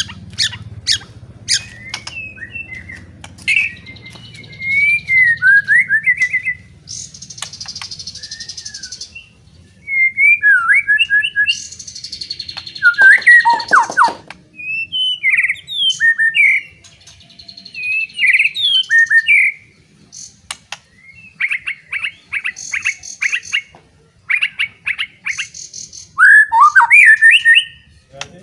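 White-rumped shama (murai batu) singing a loud, varied song of whistled phrases, rapid trills and harsh buzzy notes, starting with a run of sharp clicks.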